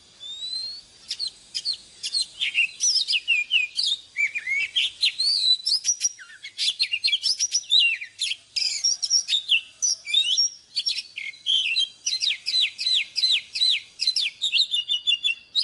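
Oriental magpie-robin singing: a rapid, continuous run of varied whistled notes that slide up and down in pitch.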